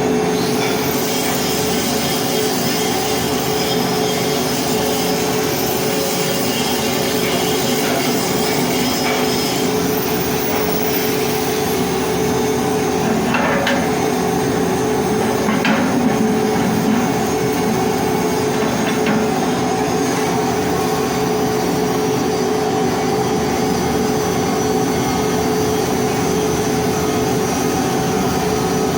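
Pipe hardfacing welding work: a steady, dense noise with a constant machine hum underneath.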